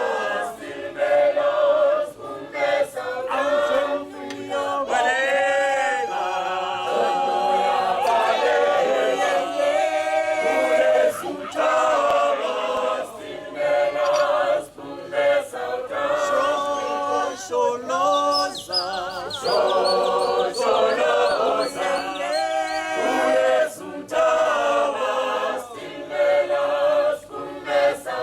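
A group of voices singing a cappella in harmony, a choir-like song with wavering, sustained notes.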